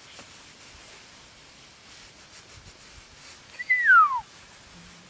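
A bird's single loud, clear call that slides down in pitch over about half a second, roughly three and a half seconds in, over a faint woodland background.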